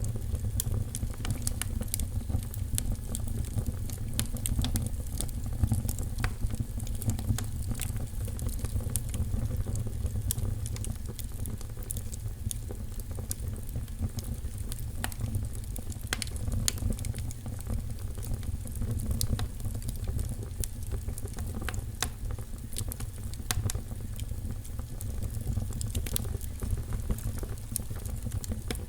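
Wood fire burning in a fireplace: steady low rumble with frequent irregular crackles and pops.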